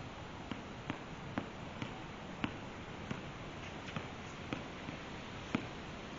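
A basketball being dribbled, sharp bounces about twice a second over a steady background hiss.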